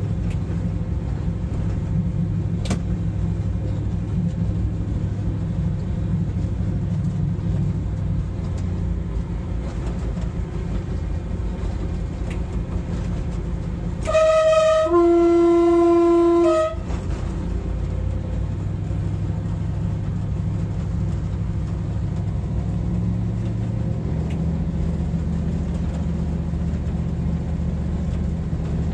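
Train cab drone as the locomotive runs steadily, with the train horn sounding once about halfway through for about two and a half seconds, a multi-note chord whose pitch drops partway through.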